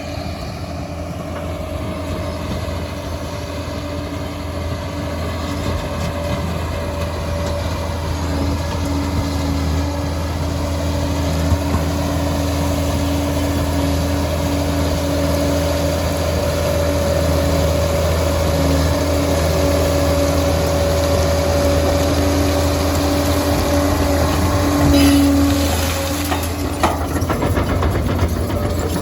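Liebherr PR 746 crawler dozer running steadily: a low engine drone with a steady whine over it. The whine swells briefly near the end and then stops, and a few knocks follow.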